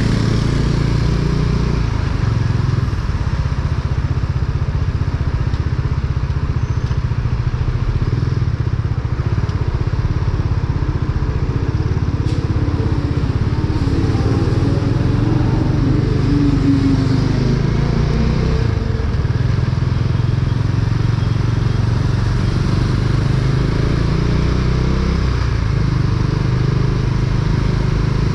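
Motorcycle engine running steadily while riding, with wind and road noise; its pitch rises and then falls about halfway through.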